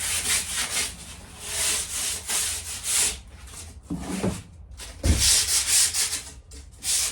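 A wooden board's edge being sanded by hand with sandpaper in quick back-and-forth strokes, to trim a piece that fits too tightly. A couple of knocks come about four and five seconds in.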